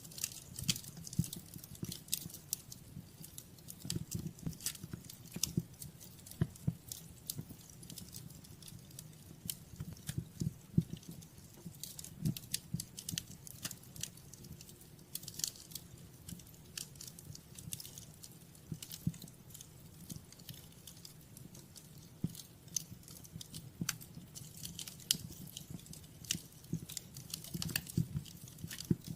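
Wood fire in a fireplace crackling, with irregular sharp pops over a low, steady rumble of the flames.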